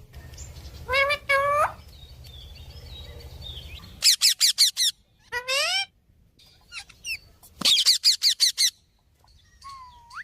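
Pet parrot calling: two short squawks about a second in, then quick runs of sharp chirps around four and eight seconds in, with a rising call between them and another short rising note near the end. A low steady hum sits under the first four seconds.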